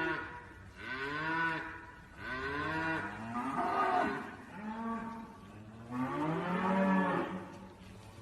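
An animal giving a series of drawn-out, pitched calls, about five in a row, each roughly a second long and rising then falling in pitch.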